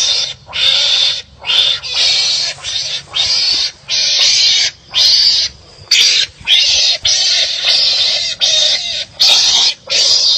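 Wild animals calling harshly at each other in a fight, a rapid run of rasping, bark-like calls about one to two a second with short gaps between them.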